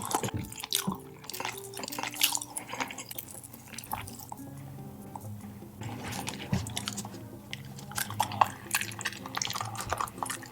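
Close-miked wet chewing: quick moist clicks and smacks of meat being eaten, with a short lull midway, over soft background music.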